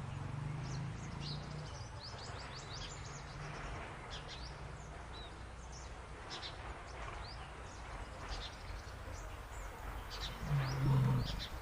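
Deep animal growls, one at the start and a louder one near the end, over a steady background of birds chirping.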